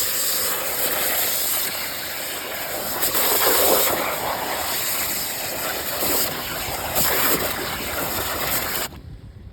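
Hydro excavator's high-pressure water jet and vacuum running: a loud, steady hissing rush that cuts off sharply near the end.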